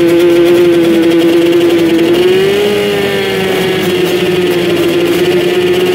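Motocross dirt bike engines held at high revs, a steady loud drone whose pitch rises slightly about two and a half seconds in and then settles.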